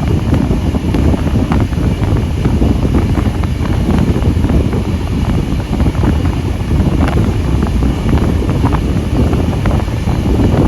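Steam-hauled passenger train running along the line, heard from on board: a steady, loud rumble of wheels and wind buffeting the microphone, with scattered short clicks and knocks from the track.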